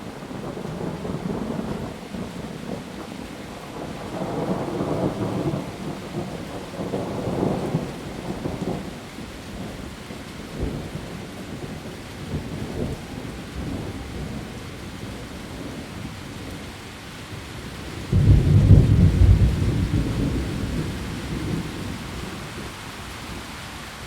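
Heavy rain falling steadily on leaves, with thunder rumbling. Low rolls swell a few seconds in, and a sudden loud clap about 18 seconds in rumbles away over the next few seconds.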